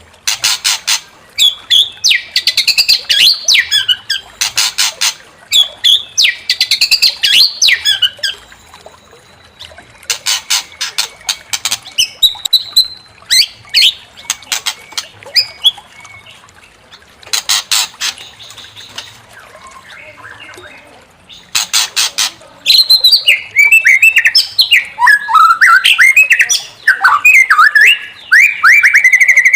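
White-rumped shama singing in agitated bouts: fast, harsh rattling notes alternating with loud whistled phrases that slide up and down, broken by short pauses. From about two-thirds of the way in, the whistles run on without a break.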